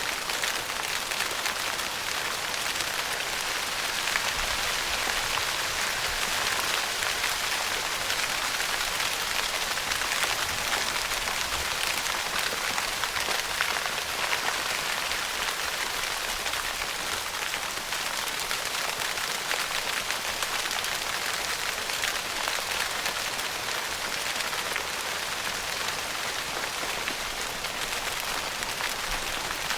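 Steady rain pattering on a tent's fabric roof, a dense, even hiss of countless small drop impacts.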